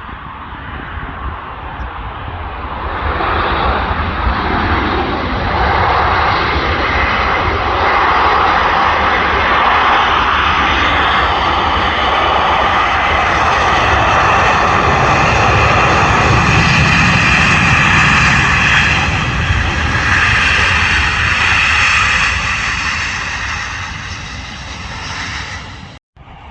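Virgin Atlantic jet airliner taking off, its engines at takeoff power. The noise swells over the first few seconds, stays loud with a steady whine in it, then fades near the end before cutting off abruptly.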